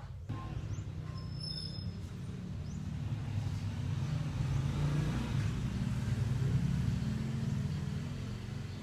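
Low motor-vehicle rumble that swells to a peak about six seconds in and then eases off.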